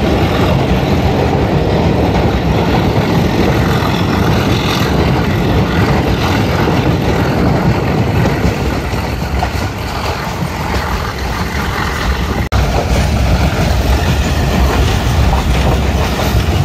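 Passenger train running along the track: a steady, loud rumble of the moving train, with a momentary break about twelve and a half seconds in.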